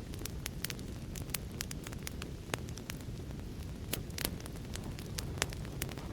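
Wood fire crackling: a steady low rumble of burning with frequent sharp, irregular pops and snaps, a few louder cracks about four seconds in.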